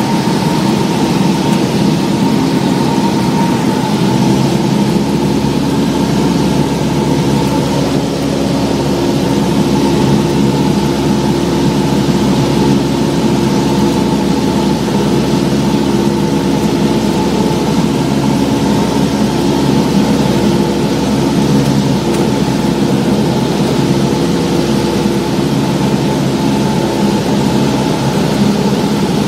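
Cessna 172's piston engine and propeller droning steadily at an even pitch, heard from inside the cabin.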